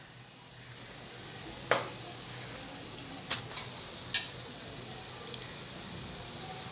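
Okra in an onion-tomato masala sizzling steadily in oil in a pot on the stove, with three short sharp clinks about two, three and four seconds in.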